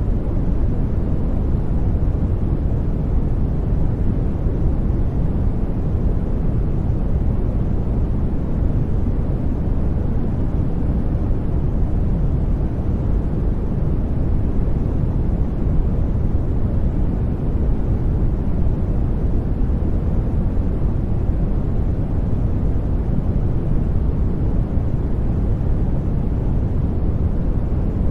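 Steady sleep-aid noise track, a deep, even rumble weighted to the low end with little treble, unchanging throughout.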